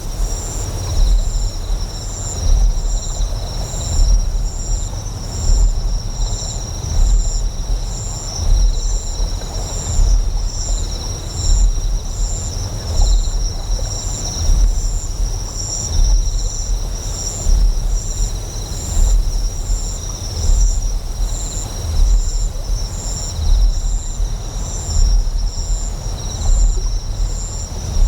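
Deep, low generator hum that swells in a slow, even pulse about every second and a half, over a bed of flowing water. Insects chirp on top in a steady, high, fast-pulsing trill.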